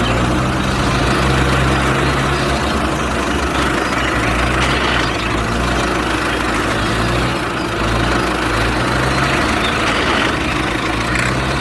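Tractor-type engine idling steadily, with an even low running note throughout.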